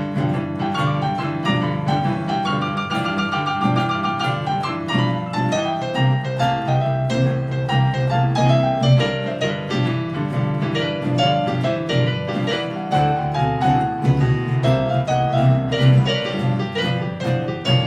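Instrumental break of a blues song: a piano solo of quick runs of notes over the band's bass and guitar.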